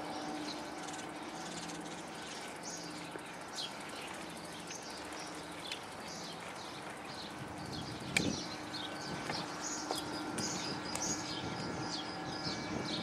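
Small birds chirping in many short, high calls over a steady low hum, with one sharp click a little past the middle.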